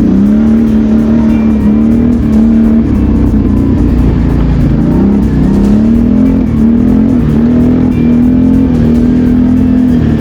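BRP Outlander 650 quad bike's V-twin engine running under throttle while riding, its pitch rising and falling with the throttle, dipping about four and a half seconds in before climbing again.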